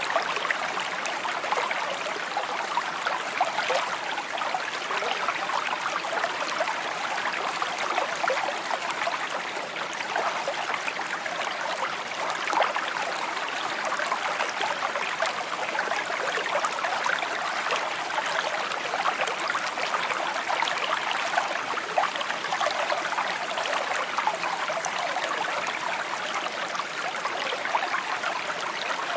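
Small stream trickling and burbling steadily, a bright, continuous patter of many tiny splashes.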